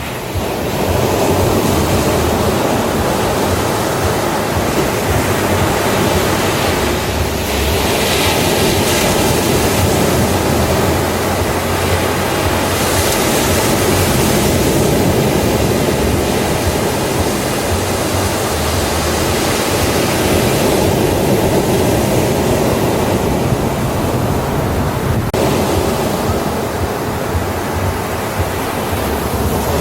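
Ocean surf washing onto a beach: a steady rush of breaking waves, with swells of louder hiss about eight and thirteen seconds in.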